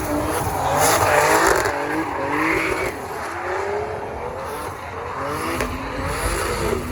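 Drift cars' engines revving up and down, with tyres squealing.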